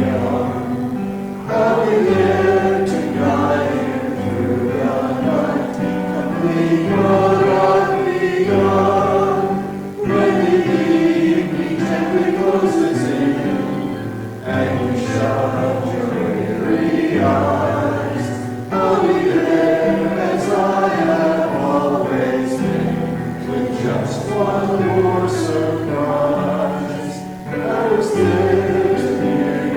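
Congregation singing a hymn together, with piano accompaniment, in phrases separated by brief pauses for breath.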